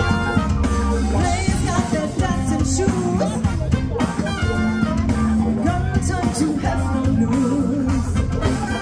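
A band playing an upbeat song with a singer and guitar over a steady beat and a strong bass line.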